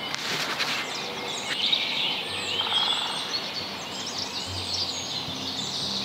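Many wild birds chirping and calling together in short, quick notes that rise and fall, over a soft steady outdoor background.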